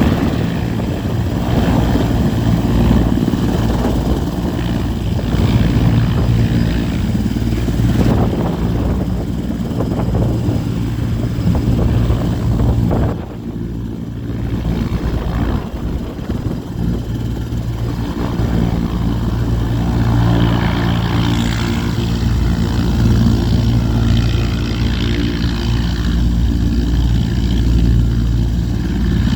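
Sikorsky S-64 Skycrane helicopter running, its twin turboshaft engines and rotor making a loud, steady drone, with a brief dip in level about 13 seconds in.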